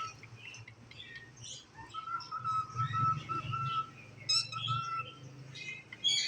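Cockatiel chirping and whistling: a string of short chirps, with a steady held whistle through the middle.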